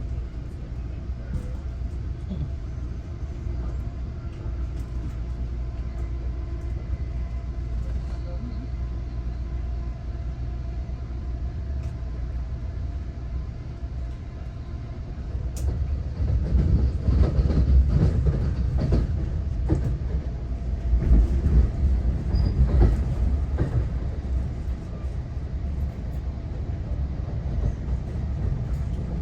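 Passenger train running, heard from inside the carriage: a steady low rumble, with a louder stretch of rattling and clatter about halfway through.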